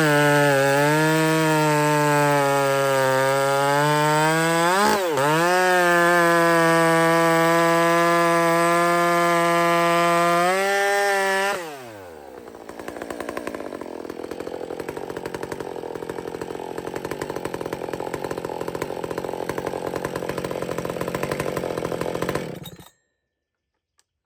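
Big ported Husqvarna chainsaw with an upgraded exhaust, held at full throttle with a steady high engine note for about twelve seconds and a brief dip about five seconds in. The pitch then falls sharply into a lower, rougher running that stops suddenly near the end.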